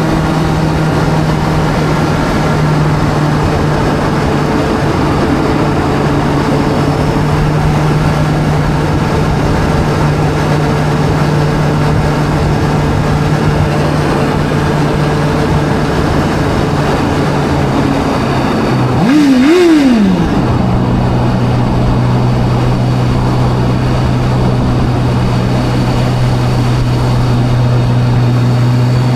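Video-game sport motorbike engine holding a steady, unchanging drone. About two-thirds of the way through it revs quickly up and down, then settles at a lower steady pitch.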